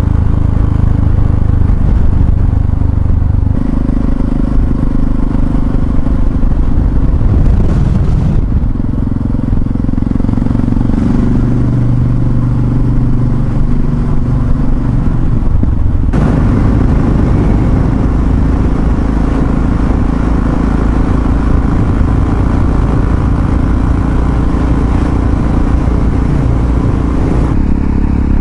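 Yamaha XT660Z Ténéré's single-cylinder four-stroke engine running steadily while the bike is ridden, its note shifting a few times.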